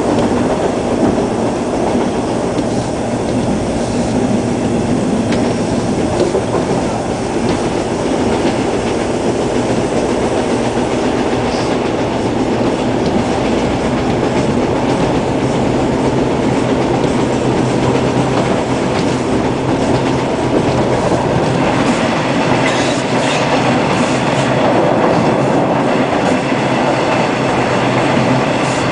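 Hawker Siddeley H4 subway car running between stations, heard from inside the car: a steady, loud rumble of wheels on rail and traction motors. It turns brighter and more rattly over the last several seconds.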